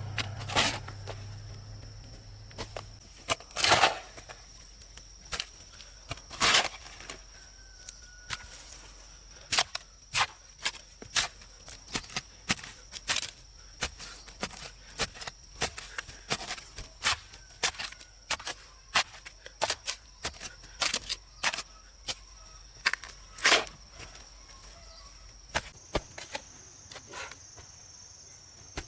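Irregular sharp knocks and clicks, a handful loud among many lighter ones, over a steady high-pitched whine.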